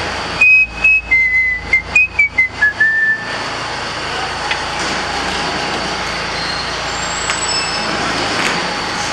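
A person whistling a short tune of about eight notes that step downward in pitch, ending about three seconds in; then steady background noise.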